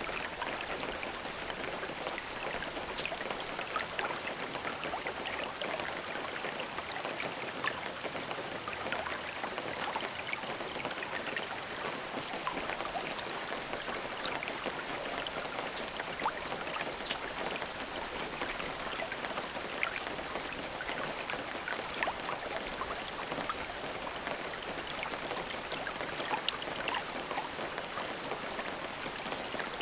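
Steady rain falling, with many individual drops pattering on a surface. No thunder.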